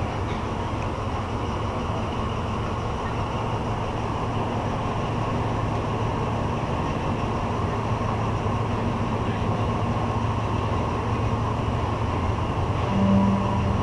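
Diesel-hauled passenger train running, a steady rumble with a low engine hum that slowly grows louder; a short low tone sounds near the end.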